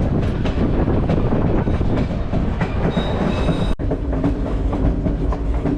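Skagway excursion train running on the rails: a steady rumble with wheels clicking over the rail joints. The sound drops out briefly a little before four seconds in.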